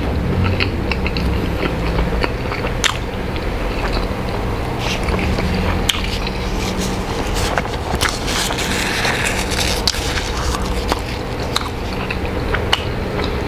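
Close-miked chewing of a mouthful of chicken burger with a soft bun, a steady run of small wet mouth clicks and crackles.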